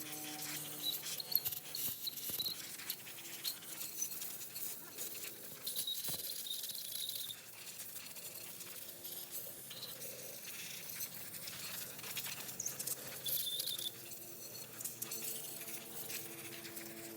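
Scattered light clicks and taps with a few brief high chirps, over a faint steady hum.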